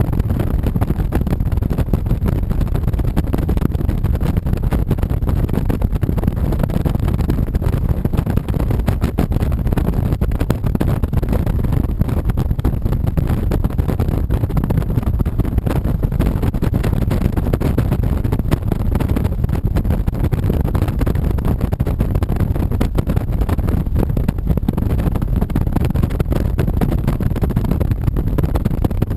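A 2007 Honda VTX 1300C's V-twin engine running steadily under way, a dense low rumble with no letup.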